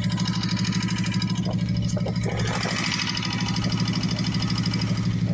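2014 Kawasaki Vulcan Vaquero's V-twin engine idling with a steady, rapid lifter tick over the exhaust pulses, a sign of faulty hydraulic lifters in the front cylinder.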